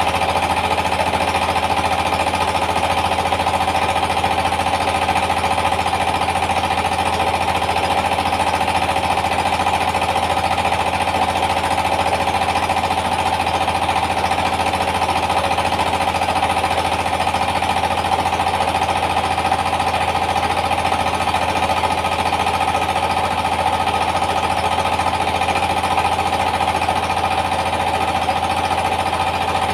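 Yanmar TS230 single-cylinder diesel engine running steadily under load, driving a rice milling machine, with a steady rapid mechanical beat and a constant whine over it.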